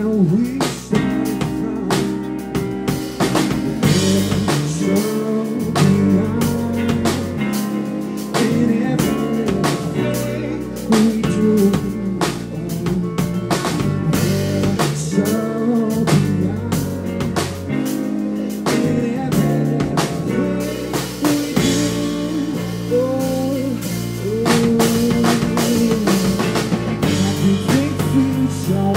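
Live band music: a drum kit with rimshots keeping a steady beat under guitar, with a melody line bending in pitch.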